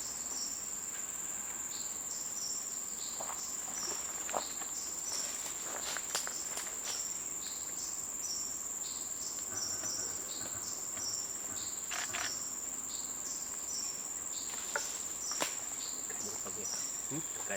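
Insects droning: a steady high-pitched hum with a short chirp repeating about twice a second, and a few sharp clicks scattered through it.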